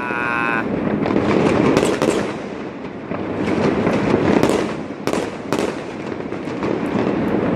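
Fireworks going off: several sharp bangs, a pair about two seconds in and another pair about five seconds in, over a steady din of crackling and noise.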